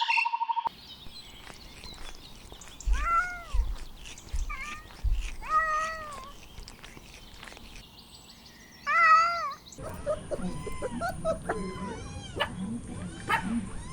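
Kittens meowing: a few separate meows with rising-and-falling pitch, the loudest about nine seconds in, then a quick run of short, high mews.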